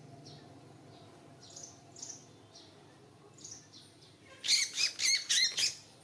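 A small songbird calling: a few faint high chirps, then a loud run of about five quick high notes near the end.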